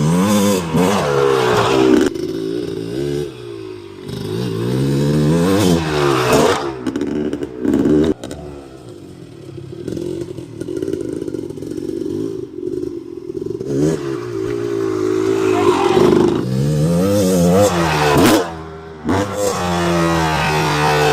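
Dirt bike engine running under the rider: the revs climb and drop again several times as it accelerates and eases off. It settles into a steadier, quieter stretch midway before revving up hard again near the end.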